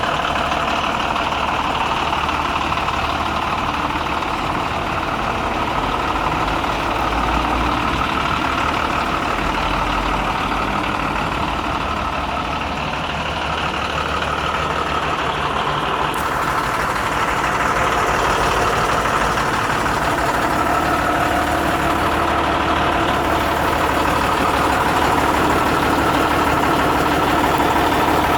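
Diesel engine of a Renault Midliner M210 4x4 truck running steadily, getting a little louder in the last several seconds.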